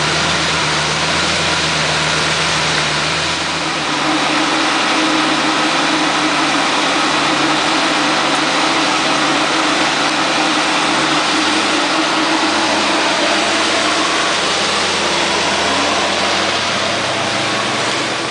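Lamborghini Gallardo's V10 engine idling steadily, a little louder from about four seconds in.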